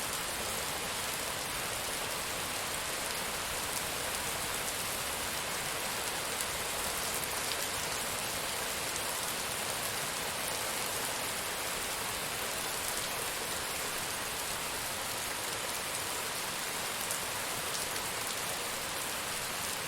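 Steady heavy rainfall, an even hiss of rain on surfaces with scattered drop ticks.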